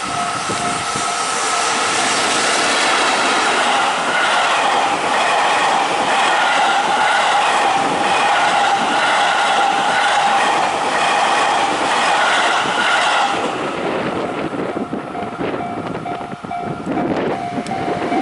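Electric train passing close by at speed, a loud rush of wheel and running noise that lasts about twelve seconds and then falls away. A level-crossing warning bell rings in a steady repeating pattern at the start and again near the end.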